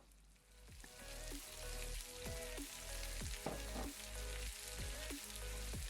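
Chopped okra sizzling as it fries in hot oil with tempered mustard seeds, cumin and dal; the sizzle swells up within the first second, then holds steady.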